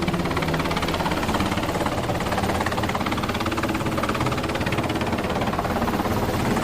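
Helicopter running, with steady engine noise and a fast, even pulse from the rotor.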